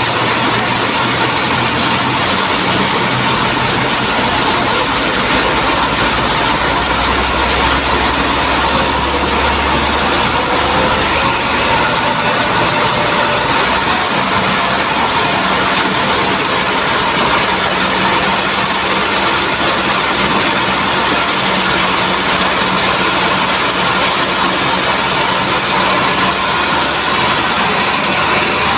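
Heavy truck engine running steadily close by, its low hum shifting to a higher pitch about ten seconds in.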